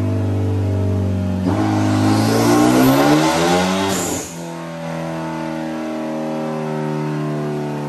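Hyundai Genesis Coupe 2.0T's turbocharged inline-four running on a chassis dyno. About a second and a half in it is pulled hard, its pitch rising with a hiss over it for some two and a half seconds, then it lets off and settles back to a steady lower note.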